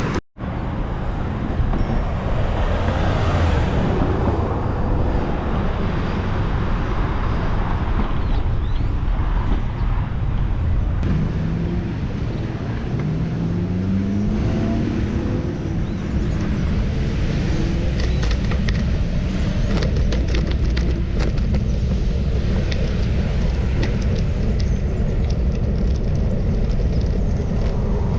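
Steady wind rumble on the microphone of a moving bicycle, mixed with road traffic, after a brief dropout at the very start. A vehicle engine rises in pitch about halfway through, and scattered clicks follow later.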